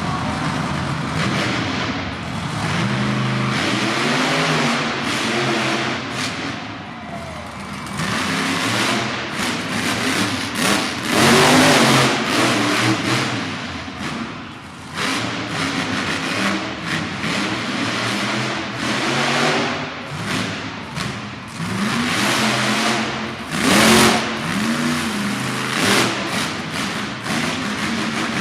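Monster truck engine revving hard, its pitch rising and falling again and again, with several louder peaks.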